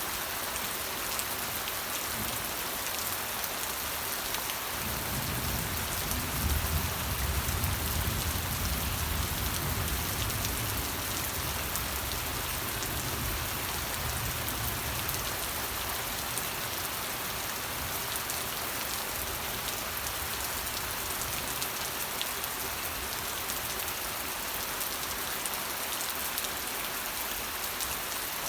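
Steady rain falling, a dense even hiss with scattered drop ticks. A low rumble rises about five seconds in and fades away about ten seconds later.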